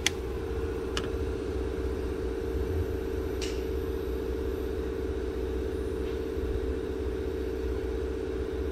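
Audi Q7's 4.2 L V8 idling steadily, freshly filled with oil and a new filter, with a light click about a second in and another short tick a few seconds later.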